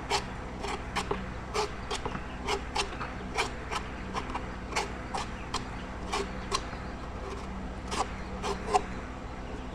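A knife chopping on a wooden cutting board: sharp, somewhat irregular strokes at about two a second.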